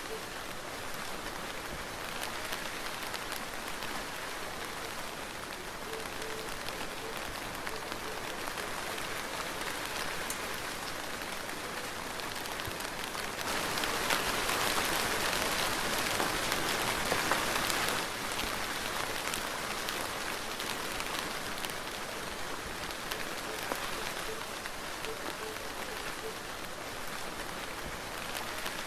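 Soft, steady rain falling, with fine individual drop ticks. About halfway through it grows louder for four or five seconds, then drops back suddenly to the softer patter.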